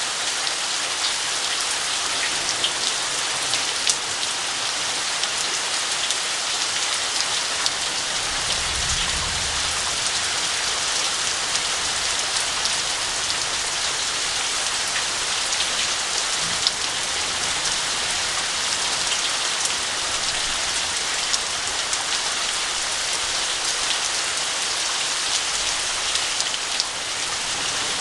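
Heavy rain falling steadily, with many individual drops ticking close by. A brief low rumble comes about eight seconds in.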